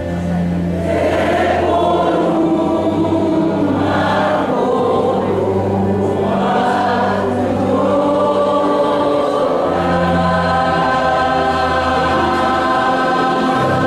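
Church choir singing long held chords in several parts over a steady instrumental accompaniment.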